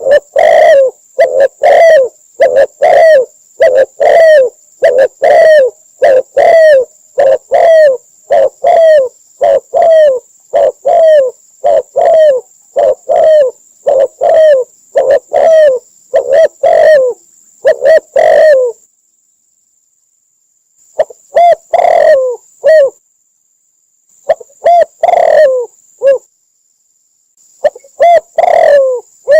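Spotted dove cooing: loud repeated coos, about two a second, for roughly eighteen seconds. After a short pause the calls come back in brief groups.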